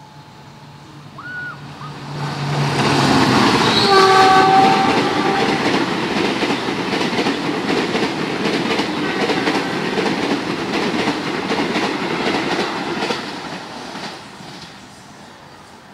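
CC 206 diesel-electric locomotive and its passenger coaches passing at speed without stopping. The train grows louder as it approaches and sounds its horn for about a second and a half, about four seconds in. The wheels then clatter over the rail joints for about ten seconds before the sound fades as the train recedes.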